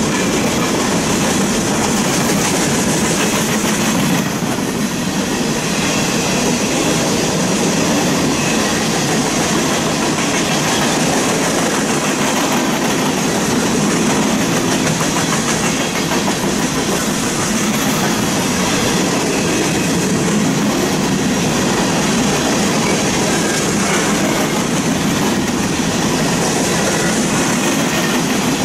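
Empty coal hopper cars of a freight train rolling past at close range: the steady, continuous running noise of steel wheels on the rails.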